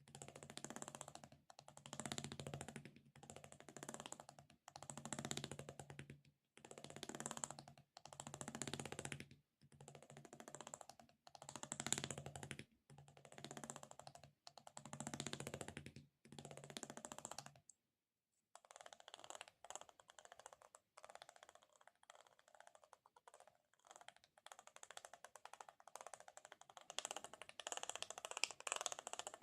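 Close-miked ASMR handling sounds in repeated strokes about a second long with short gaps. They break off about 18 seconds in and give way to a denser, finer crackling texture.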